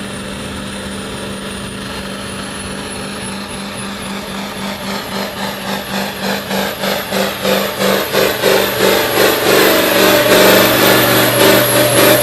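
Modified pulling tractor's engine running with a high turbo whistle that slowly climbs, then surging about twice a second and growing steadily louder through the second half.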